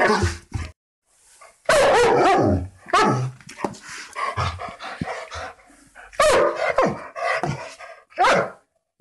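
Guard dog barking aggressively in runs of loud barks, with a short pause about a second in.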